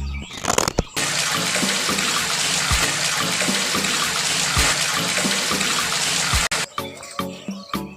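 Water rushing and splashing steadily for about five seconds, then cutting off suddenly.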